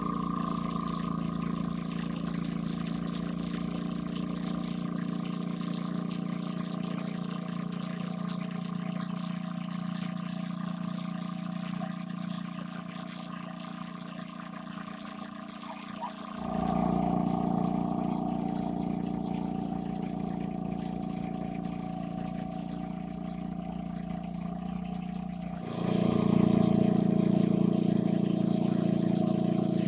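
A motor running steadily with water pouring. It gets abruptly louder about halfway through and again near the end.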